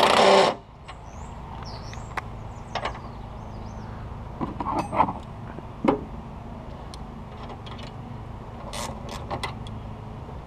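A cordless power driver runs briefly as it backs out a battery hold-down bolt, then stops about half a second in. After that come light metal clicks and knocks as the loosened bolts and the hold-down bar are handled.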